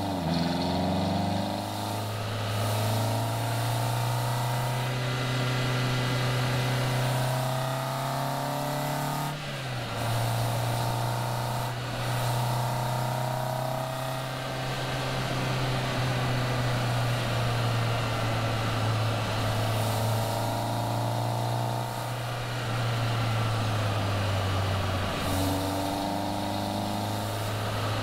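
Caterham Seven engine pulling the car along at road speed, the revs climbing in stretches, with a short dip in the note about nine or ten seconds in like a gear change. Wind and road noise sit under it throughout.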